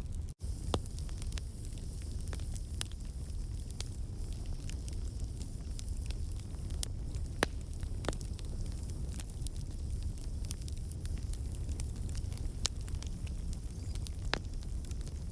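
Wood campfire burning: a steady low rumble of flames with scattered sharp pops and crackles from the logs, caused by water and sap in the wood turning to steam. The sound cuts out for a split second near the start.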